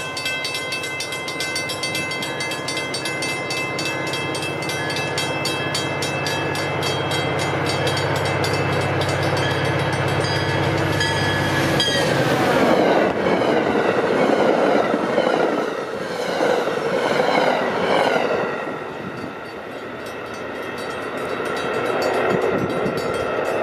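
An MBTA commuter train approaches with its horn sounding and its diesel locomotive running, over the ringing of the grade-crossing bells. The horn drops in pitch as the locomotive passes, about twelve seconds in. The rumble and clatter of the passenger coaches going by follow, easing as the train moves away.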